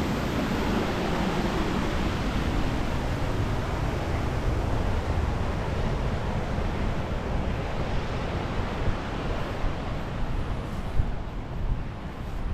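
Waterfall rushing steadily, a dense, even wash of falling water. A few low bumps come near the end.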